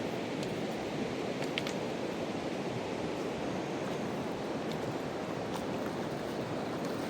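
Fast-flowing mountain river rushing steadily over its bed, with a few faint clicks.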